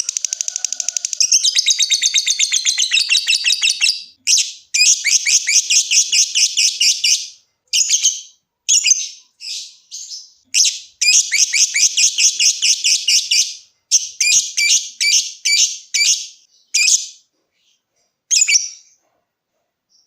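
Lovebird chattering in long, fast trills of high-pitched notes, the prized 'ngekek' chatter, first without a break for about four seconds, then in runs of a second or two to about three seconds separated by short pauses. The runs grow shorter later on and stop about a second before the end.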